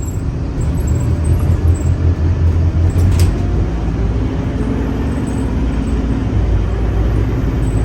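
Scania K310UA articulated city bus running under way, its engine a steady low rumble, with a single sharp click about three seconds in.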